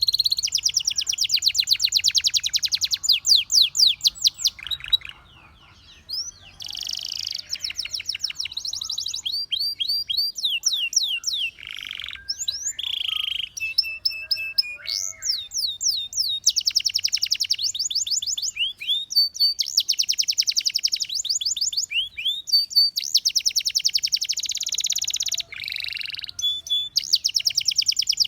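Domestic canary singing a long song of fast rolling trills, rapidly repeated notes and sweeping whistles, with a short pause about five seconds in.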